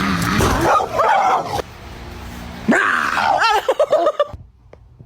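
A dog vocalizing: a rush of noise in the first second and a half, then a run of short, wavering, high-pitched yips and whines about three seconds in.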